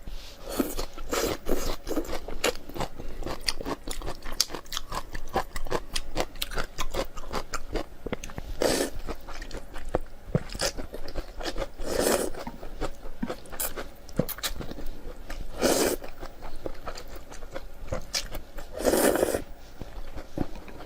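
Close-miked mouth eating sounds: a person chewing and crunching food with many quick, crisp clicks. A few louder, longer mouth sounds come about every three or four seconds.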